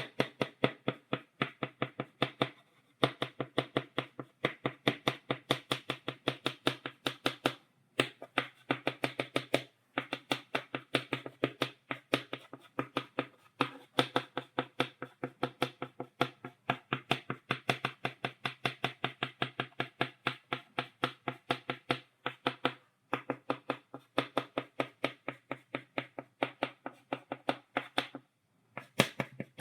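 Chalk tapped rapidly against a blackboard to stipple dots, a dry, sharp tap several times a second, with brief pauses now and then.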